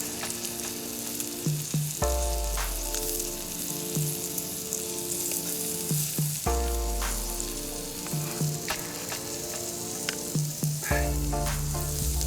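Salo (pork fat) and tomato slices sizzling in a frying pan over a campfire, with a few light clicks. Soft background music of held chords plays along, changing every few seconds.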